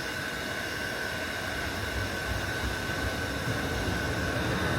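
Handheld electric hot-air blower running steadily: a rushing hiss with a constant high whine, heating old grip tape on a golf club shaft to soften the leftover solvent.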